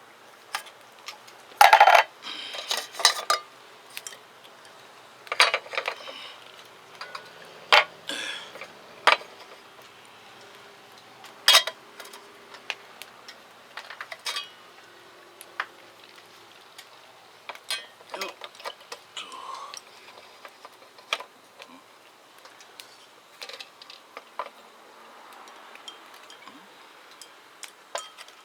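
Irregular clinks, knocks and rattles of tableware and food containers being handled, with the loudest knocks in the first half and sparser, quieter ones later.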